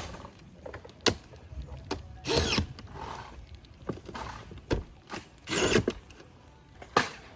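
Power screw gun driving fasteners into metal roofing shingles in two short bursts, with sharp knocks and clicks of metal panels being handled between them.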